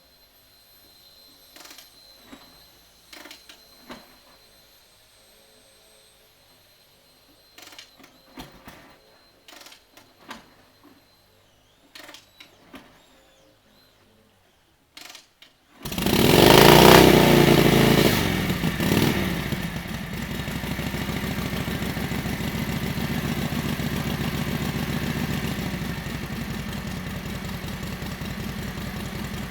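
Scattered clicks and knocks, then about halfway through the 1942 Harley-Davidson WLA's 45 cubic inch flathead V-twin fires on a cold start. It flares up loud, rises and falls in pitch, and within a few seconds settles into a steady, pulsing idle. It fires with the choke still on, which loads it up.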